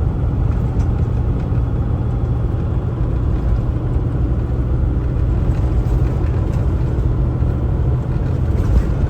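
Kenworth T680 semi truck driving at road speed: a steady, low engine drone mixed with road rumble, with no distinct events.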